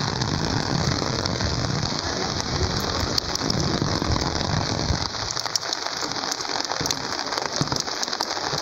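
Rain falling on a flooded street: a steady hiss with scattered ticks of drops, and a low rumble that eases off about five seconds in.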